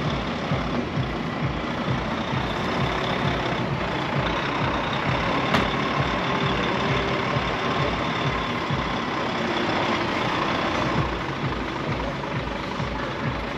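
Heavy truck's diesel engine running steadily, with one sharp click about five and a half seconds in.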